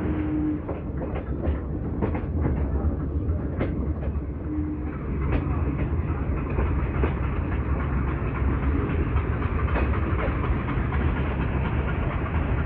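Metre-gauge passenger train running, its wheels clicking irregularly over rail joints during the first half. Under it runs the steady low drone of the hauling YDM4 diesel locomotive's ALCO 251 engine, which grows more prominent in the second half.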